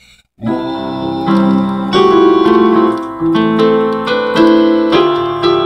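Piano-style keyboard music, chords and melody notes that begin after a brief silence about half a second in.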